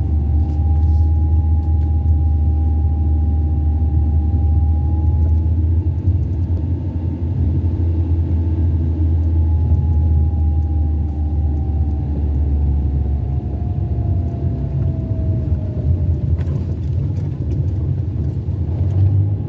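Car driving along a town street, heard from inside: a steady low rumble of engine and road noise, with a faint whine that drifts down in pitch near the end.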